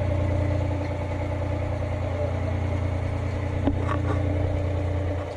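A dhoni's engine running steadily with an even low hum. One sharp knock sounds just past the middle.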